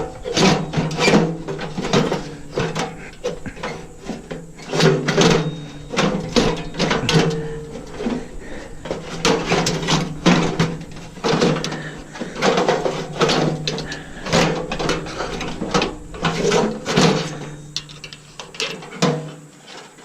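Irregular clinks, knocks and rattles of metal parts and hand tools being handled while a stainless steel coffee maker is taken apart for scrap.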